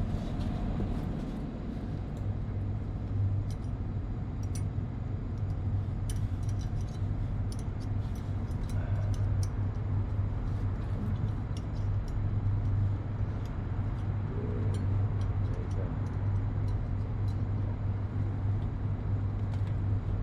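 A 7.5 kW electric motor running steadily on a test run after a bearing replacement: a steady low hum over even machine noise, with faint scattered ticks.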